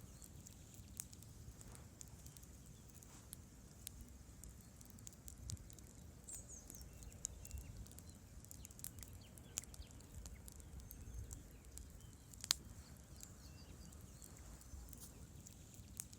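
Wood campfire crackling: scattered sharp snaps and pops from the burning logs over a low rumble of the fire, with one clearly louder pop about twelve seconds in.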